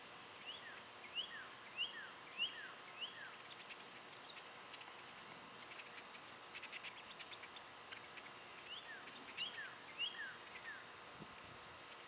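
A songbird sings faintly, repeating a two-note phrase five times: each time a high note, then a lower note slurring downward. It sings the run near the start and again about nine seconds in. Between the two runs comes a patter of short, sharp high ticks.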